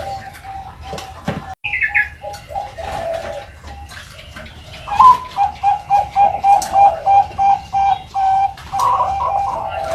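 Young Bangkok-line zebra dove (perkutut) cooing: softer, irregular coos at first, then from about five seconds in a rising note followed by a steady run of short, clipped coo notes, about three a second.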